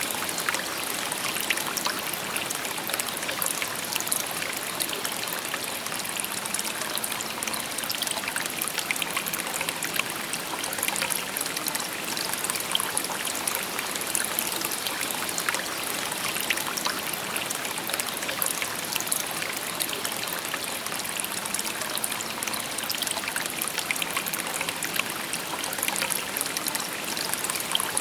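Shallow river babbling steadily over stones, a constant rush of water with many small splashes and trickles.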